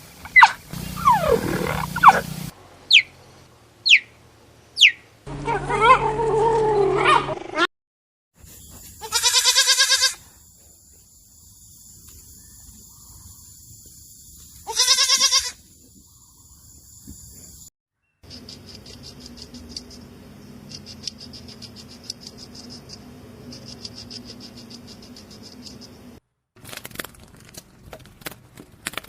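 A run of different animal calls cut one after another: falling cries, three quick chirps, a pitched call, two short pulsing calls, then a fainter stretch of rapid ticking.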